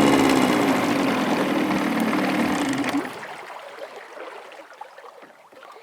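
Boat motor running steadily under way, then cut about three seconds in; the rush of water along the hull fades away as the boat coasts.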